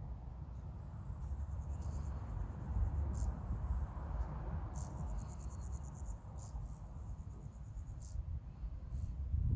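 Insects chirping in short, rapidly pulsed high-pitched trills, several times at uneven intervals, over a steady low rumble.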